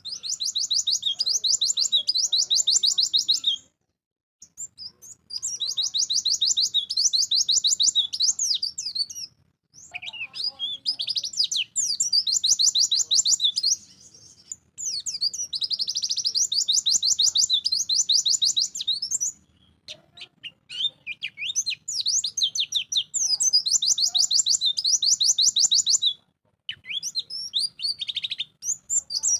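White-eye (pleci) singing in energetic phrases of rapid, high chattering trills, each about three to five seconds long and separated by short pauses.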